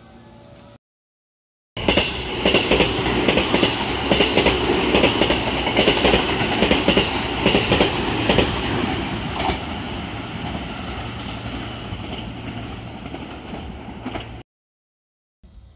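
JR West suburban electric train running past close by, its wheels clacking regularly over the rail joints, loudest at first and slowly fading as it draws away. It cuts in suddenly about two seconds in and stops abruptly near the end.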